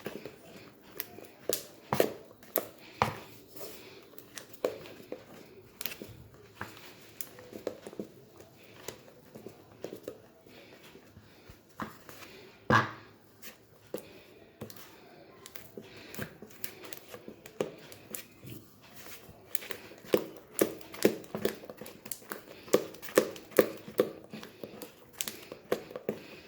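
A ladle stirring cake batter in a bowl: wet mixing sounds with irregular clicks and taps of the ladle against the bowl, settling into a steady beat of about two taps a second near the end.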